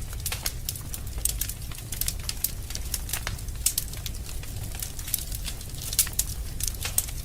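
Wood fire burning in a fireplace: irregular crackles and sharp pops of burning logs, several a second, over a low, steady rumble of the flames.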